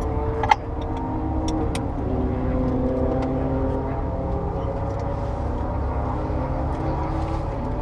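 Porsche 930 Turbo's air-cooled turbocharged flat-six running at low revs with a heavy low rumble, its pitch drifting gently up and down. A sharp click about half a second in.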